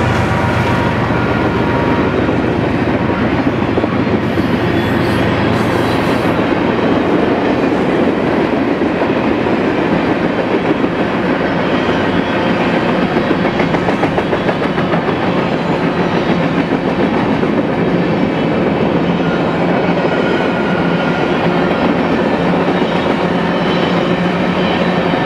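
Mixed freight train passing close by at speed, with a steady rumble and clickety-clack of steel wheels on rail from its tank cars, hoppers and boxcars. The low drone of a mid-train diesel locomotive (distributed power unit) fades out over the first few seconds.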